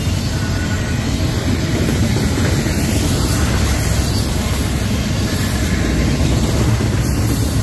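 Norfolk Southern freight train rolling past at close range: a loud, steady rumble of cars and wheels on the rails.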